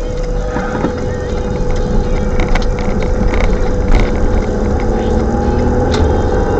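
Strong wind buffeting the microphone: a heavy, uneven low rumble with a few sharp clicks scattered through it.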